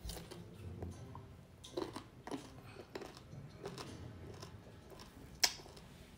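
Close-up chewing of crisp, unripe green mango, with small irregular crunches and one sharper, louder click about five and a half seconds in.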